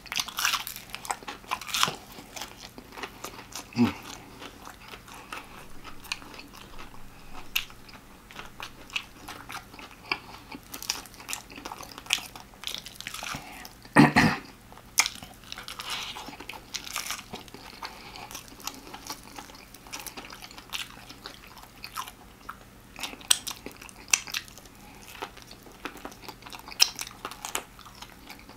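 A person chewing and biting into extra-crispy fried chicken, with sharp crackling crunches of the fried breading throughout. There is one loud crunch about halfway through.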